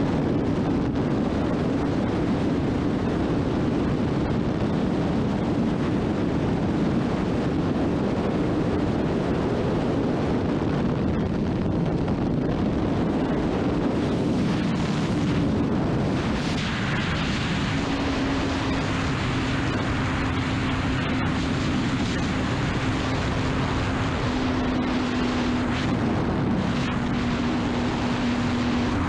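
Honda CBR600RR's inline-four engine running steadily at cruising speed under heavy wind rush. The engine note breaks about sixteen seconds in and settles again at a slightly lower pitch.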